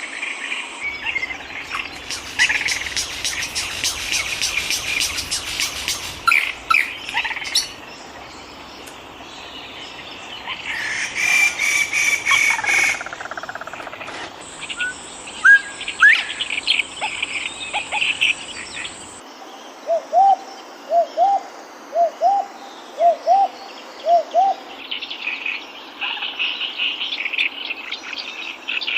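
Tropical forest soundscape: several birds chirping and trilling over insects buzzing, with a steady high insect whine at times. About two-thirds through, a run of about eight short, low rising notes.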